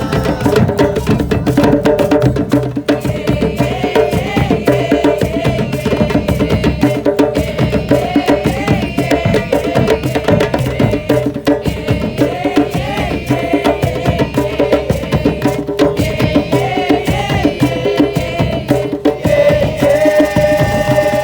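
Live band playing an instrumental passage of a devotional folk song: quick, dense hand-drum and percussion strokes under a melodic line that repeats a bending phrase about every four seconds.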